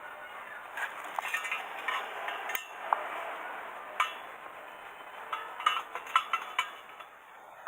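Irregular light metallic clinks and taps, with a few short ringing pings among them.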